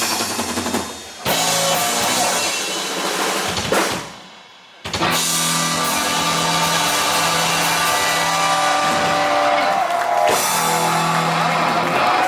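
Heavy metal band playing live, drums and distorted guitars in stop-start hits, breaking off briefly about four seconds in. Then a long held chord rings out, ending the song.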